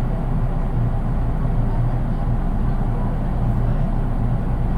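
Interior noise of a JR East 183 series DC electric train, heard in its unpowered driving trailer car: a steady low hum and rumble.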